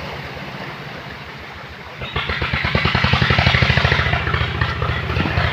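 Truck engine running with an even, rapid beat; about two seconds in it grows sharply louder as it revs up or pulls closer.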